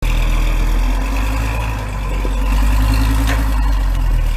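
Heavy truck engine running steadily with a deep rumble, and a brief sharp click about three seconds in.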